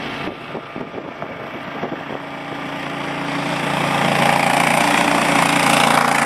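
Engine of a snow-plowing machine running steadily, getting louder and noisier from about three seconds in.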